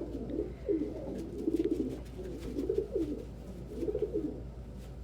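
Domestic pigeons cooing: several low, wavering coo phrases one after another that stop about four seconds in, with a few faint clicks.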